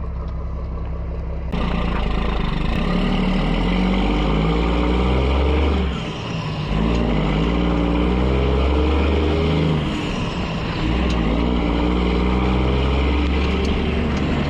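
Heavy diesel truck engine pulling hard and climbing in pitch, with two brief dips in the sound where it shifts gears.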